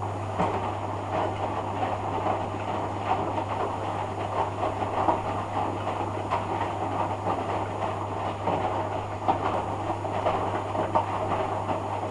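Hoover Dynamic washing machine on its rinse cycle: the drum turning with wet laundry tumbling and water sloshing, with small irregular knocks over a steady low hum.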